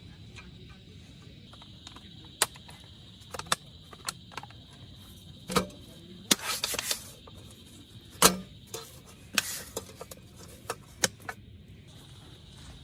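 Camp gear being handled: scattered sharp clicks and knocks with short rustles between them, over a steady low background hiss.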